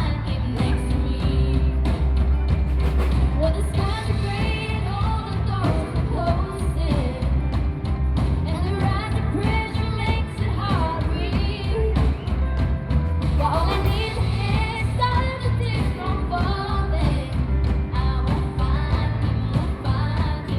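Live amplified pop-rock band playing, with a lead singer's voice over a heavy bass line.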